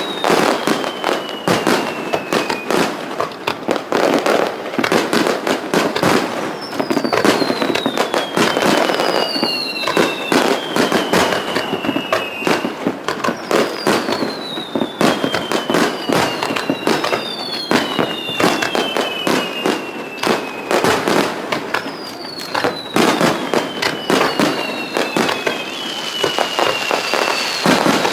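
Aerial fireworks display going off in rapid succession: a dense run of bangs and crackling, with a series of falling whistles roughly every two seconds.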